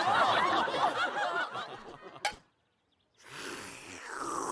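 Several cartoon voices laughing together, dying away after about two seconds, followed by a sharp click and, after a short pause, a softer breathy sound near the end.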